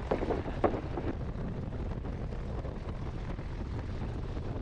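Great Lakes open-cockpit biplane's engine running steadily, heard as a low rumble with wind noise on the microphone. There is a short louder burst in the first second.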